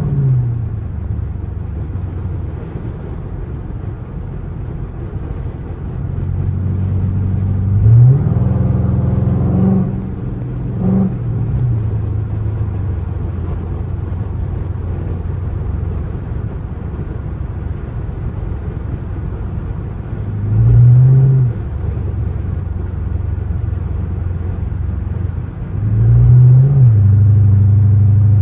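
Straight-piped Chrysler 300C Hemi V8 exhaust running with a steady low drone, rising in pitch and level several times as it accelerates or is revved, loudest near the end.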